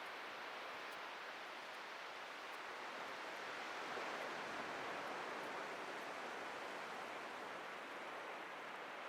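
Atlantic ocean surf washing onto a beach: a steady rush of breaking waves that swells a little about four seconds in.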